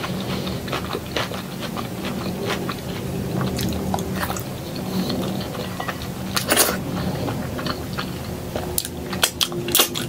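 Close-miked chewing of a boiled egg, with wet mouth clicks and lip smacks. There is a sharper smack about six and a half seconds in, and a quick run of smacks near the end as fingers are licked.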